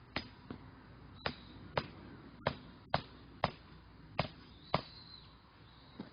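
Repeated hatchet or axe strikes splitting firewood: about ten sharp knocks, roughly two a second, with short pauses between groups.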